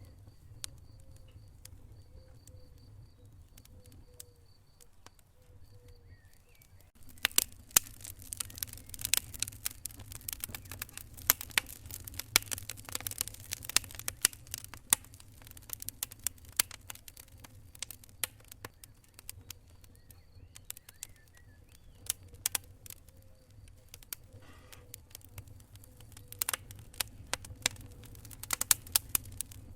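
Wood fire in a fireplace crackling and popping over a steady low rumble. The crackles are sparse for about the first seven seconds, then come thick and fast with sharp, loud pops.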